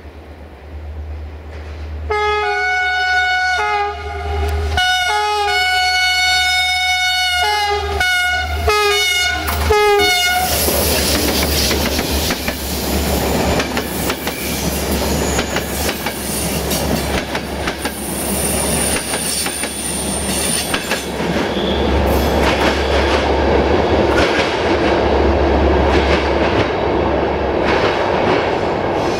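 A diesel-hauled passenger train approaching and passing. Its horn sounds a series of blasts in several changing tones for about eight seconds. Then the coaches roll past with steady wheel noise and clickety-clack, and a thin, high wheel squeal a little past the middle.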